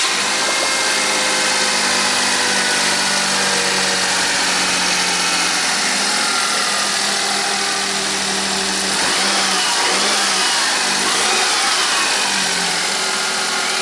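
Nissan Clipper U71V's small three-cylinder engine running steadily at idle after its timing belt replacement, with a brief rise and fall in revs about nine to eleven seconds in.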